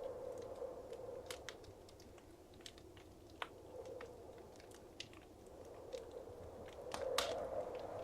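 Wood fire crackling in a fireplace: scattered sharp pops and snaps over a soft rush of flame that swells again near the end.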